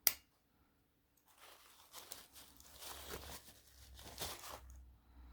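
A Swiss Army knife tool snapping shut with one sharp click, then a few seconds of rustling and scraping as the knife is handled.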